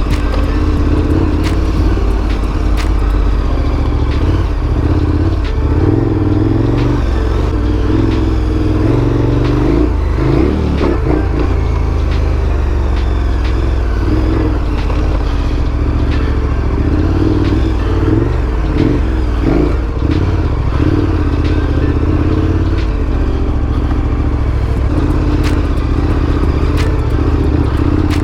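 Big adventure motorcycle's engine running on a dirt trail, its pitch rising and falling with the throttle, most clearly about ten and eighteen seconds in, with scattered knocks and clatter from the bike over rough ground.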